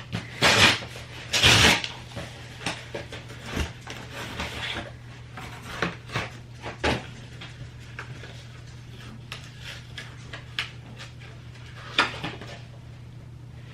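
A package being opened and handled by hand: two loud scraping strokes in the first two seconds, then scattered rustles, taps and clicks. A steady low hum runs underneath.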